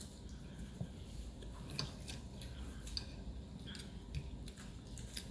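Faint eating sounds: a few light, scattered clicks of cutlery against a plate, roughly one a second, with some chewing.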